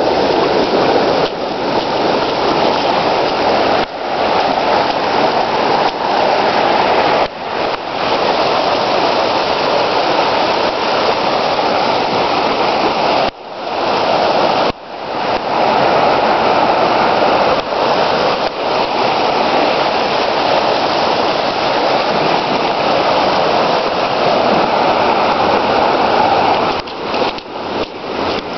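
Heavy rain pouring down, a loud, steady rushing hiss of water that briefly drops away a few times.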